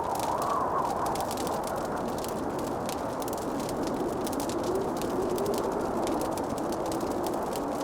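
Fireplace fire crackling, with many small quick pops, over a steady rushing background in which a faint wavering tone slowly drifts lower.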